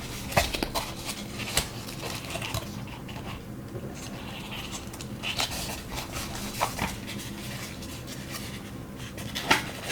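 Light rustling and scattered small clicks and taps of packaging and small items being handled during an unboxing.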